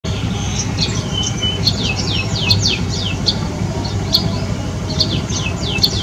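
White-rumped shama calling: a rapid string of short, downward-sliding whistled notes, several a second, with one brief level note about a second in. A steady low rumble runs underneath.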